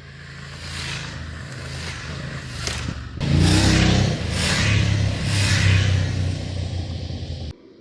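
Motorcycle engine accelerating under load with wind rushing past, building and jumping louder about three seconds in, then cut off abruptly near the end.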